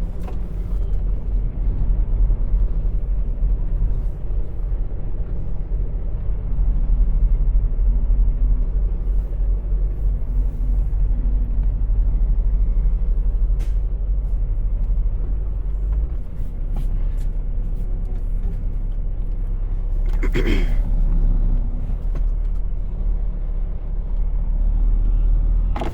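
Semi truck's engine running with a steady low rumble, its note shifting about 16 seconds in.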